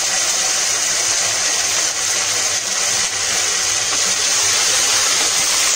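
Ginger-garlic paste sizzling in hot ghee and oil with fried onions in a non-stick kadai, a loud, steady hiss while a wooden spatula stirs it in. The paste is freshly added and still frying off its moisture; the sizzle dies down once it is cooked through.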